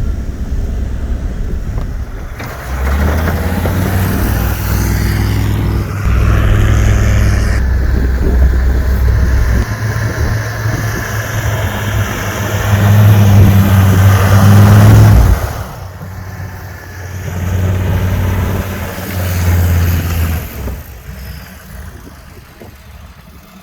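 Truck engine running and pulling under load. It revs up to its loudest about two-thirds of the way through, drops off sharply, picks up once more, and fades out near the end.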